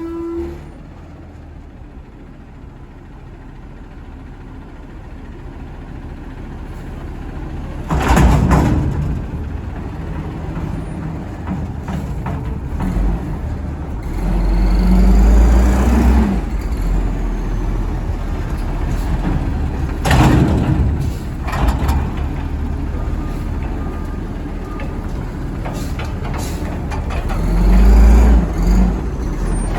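Garbage truck engine revving up hard several times, its pitch rising with each rev. Short sharp hissing bursts come about 8 and 20 seconds in.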